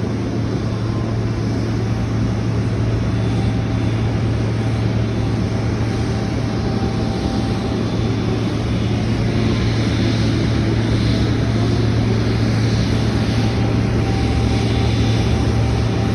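Jet airliner engines running: a steady rumble and hiss that slowly grows a little louder.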